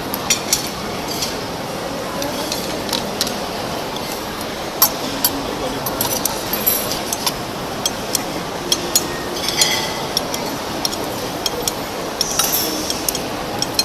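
Tableware clinking at a meal: many short, irregular clinks and taps of utensils on dishes, over a steady background of indistinct voices.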